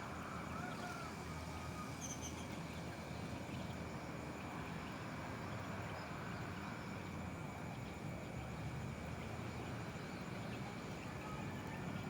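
Steady outdoor ambience: an even background noise with a faint constant high-pitched tone and a few faint bird chirps in the first second or so.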